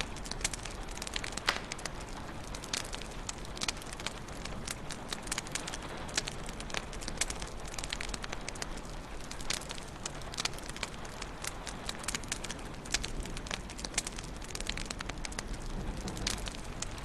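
Wood fire crackling in a fireplace: a steady low hiss under many irregular sharp pops and snaps.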